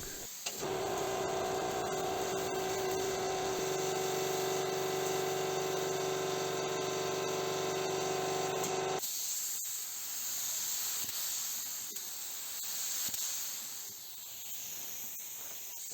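Paint being sprayed onto car body panels, a steady hiss with a steady hum under it. About nine seconds in it changes abruptly to a quieter hiss that swells and fades as the spray passes over the panel.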